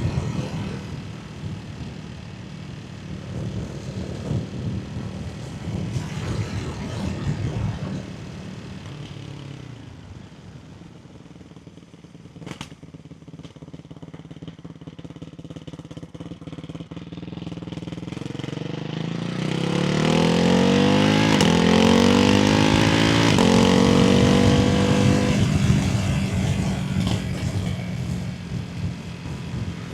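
Ducati Hypermotard 698's single-cylinder engine through a baffled Termignoni exhaust, running at varying revs. It eases off to a quieter stretch on the overrun midway. From about two-thirds of the way in it climbs in pitch under throttle to its loudest, then backs off near the end.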